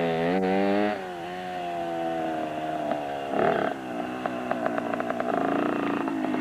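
Small motorcycle engine revving and running under load: its pitch is held high for about a second, drops to a steady drone, climbs again briefly around three and a half seconds in, then settles lower.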